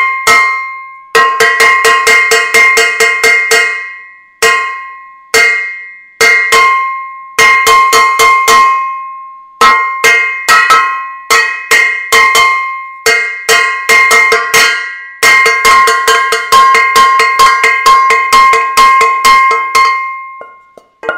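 Metal saucepan banged over and over, each hit ringing. The strikes come in quick bursts with short pauses, then a fast unbroken run for the last few seconds that stops just before the end.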